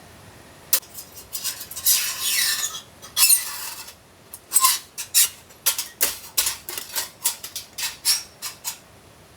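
Camping gear being handled: two rasping scrapes, then a quick run of a dozen or so light clicks and clinks.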